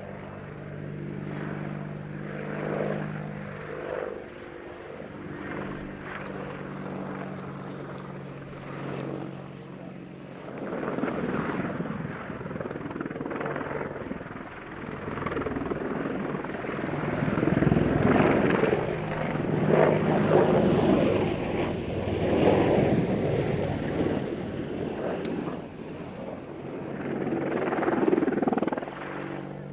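Helicopter engine and rotor noise: a steady hum at first, then growing louder about a third of the way in, loudest past the middle, with another swell near the end.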